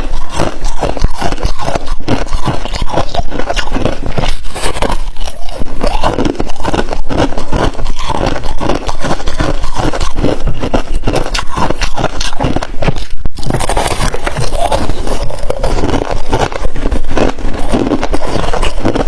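Crunchy freezer frost ice being crunched, a dense, unbroken run of crisp crackles and crunches.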